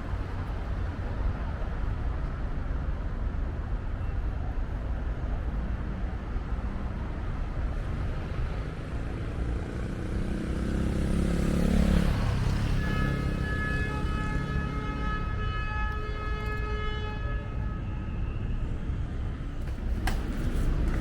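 City street traffic, a steady rumble. A vehicle passes close, loudest about twelve seconds in with its pitch dropping as it goes by. Right after, a steady high multi-note tone is held for about five seconds.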